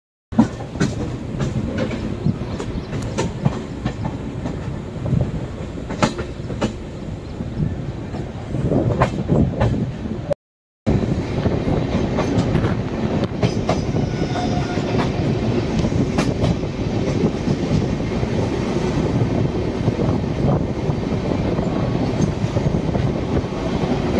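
Express passenger train running on the track: a steady rumble of the coaches with irregular clicks from the wheels passing over rail joints.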